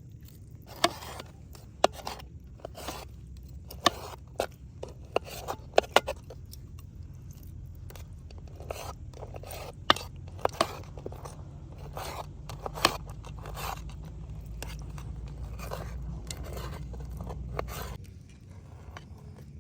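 Hand food preparation: irregular sharp clicks, knocks and scraping of utensils, a few of them loud, over a low steady rumble.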